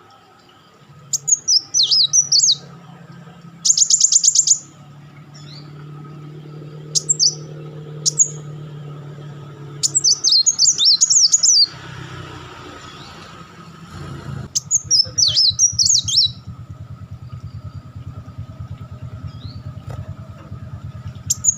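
Kolibri wulung sunbird giving bursts of high, rapid chattering song, with quick sliding notes and a very fast buzzy trill about four seconds in. The bursts come every few seconds with short pauses between, over a low steady hum.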